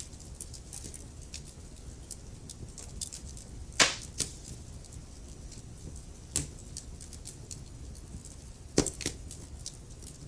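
Wood fire burning in a fireplace: a steady low rumble of flames with frequent small crackles and three louder sharp pops from the burning logs, about four, six and nine seconds in.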